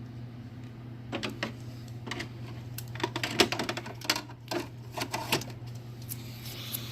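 Hard plastic clicking and rattling as the dehumidifier's removable air filter is handled and pushed back in under the front of the unit: a quick irregular run of sharp clicks, busiest in the middle, over a steady low hum.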